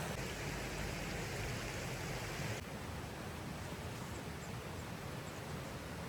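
Steady rushing outdoor noise with no distinct events, changing abruptly in character about two and a half seconds in.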